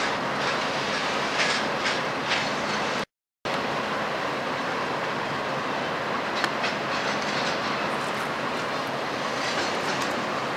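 Freight train cars rolling past with the wheels clicking over rail joints. The sound drops out for a moment about three seconds in. Then comes steadier train wheel noise with a few clicks as an Amtrak passenger train passes.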